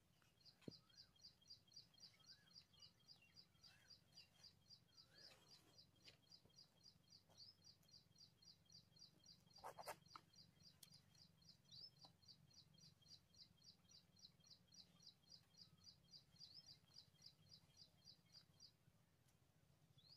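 Faint bird chirping: a high chirp repeated steadily about four times a second, with a few lower whistling calls in the first few seconds, over a low hum. A click near the start and a brief noise about halfway through.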